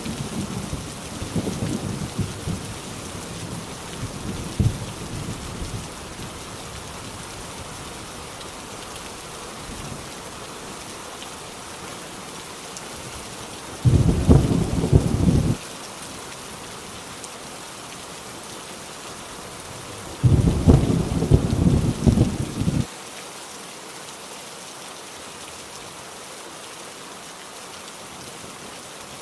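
Heavy rain drumming steadily on a tin roof, with thunder rumbling low. The thunder fades out over the first few seconds, then comes back twice, each time for about two seconds, about halfway through and again a few seconds later.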